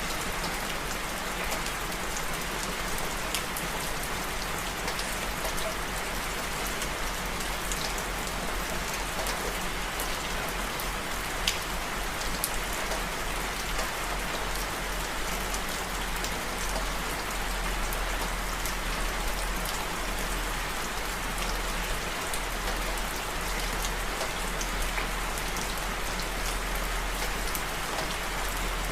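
Steady rain falling, an even hiss with scattered individual drops ticking on a surface; one sharper drop hit about eleven seconds in.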